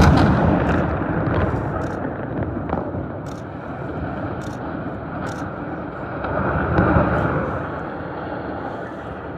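Demolition implosion of a blast furnace: a sudden loud blast, then a long rumble of the structure collapsing, with scattered sharp cracks over the first few seconds. The rumble swells again about seven seconds in, then fades.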